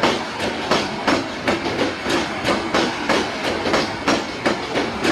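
Passenger train coaches rolling past, their wheels clacking over the rail joints in a steady rhythm of about three clacks a second.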